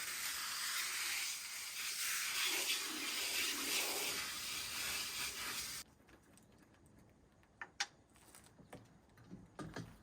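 Steady hiss of water spraying from a garden hose, which cuts off suddenly about six seconds in. A few faint knocks follow.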